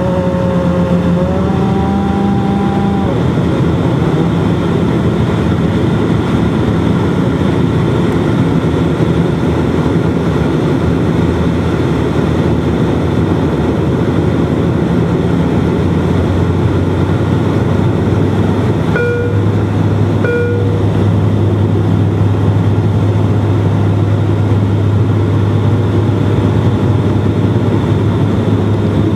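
Bombardier Dash-8 turboprop engines and propellers droning steadily during the landing, with a low hum that drops in pitch about halfway. Two short tones sound about two-thirds of the way in.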